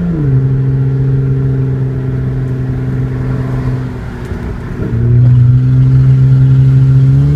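2006 Hyundai Sonata V6 running open header, with mufflers, resonator and catalytic converter removed, pulling under throttle: a loud, raspy drone whose pitch drops just after the start, as at a gearshift, holds steady, then gets louder about five seconds in as more throttle is applied.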